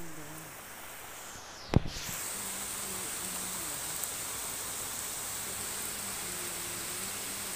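Steady hiss of rain falling on a flat roof and garden foliage. A sharp click comes a little under two seconds in, after which the hiss is somewhat louder.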